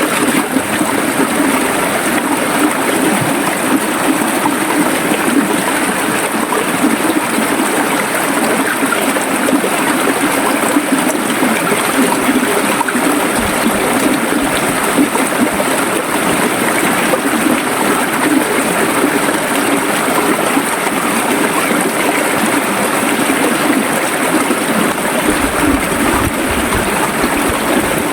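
Flowing river or stream water, a steady gurgling rush with no breaks.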